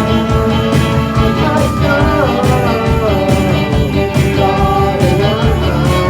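Rock band playing live, with drums and electric guitars and a lead melody that slides between notes.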